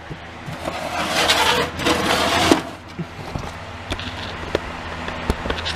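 Handling noise from a hard plastic toy being moved about: a rustling scrape lasting about two seconds, then a few sharp clicks and knocks.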